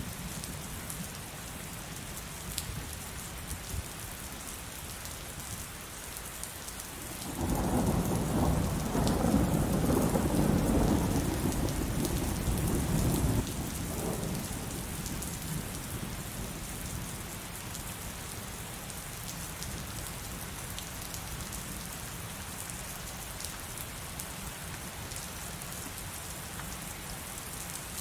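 Heavy rain falling steadily, with one long roll of thunder that rumbles in about a quarter of the way through, lasts around six seconds, and then fades back to the rain.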